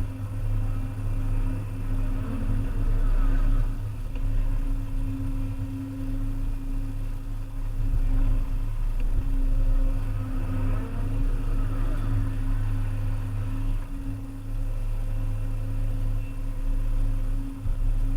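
Volvo EC300E excavator's diesel engine running steadily under working load. Twice a higher hydraulic whine swells and fades as the machine works.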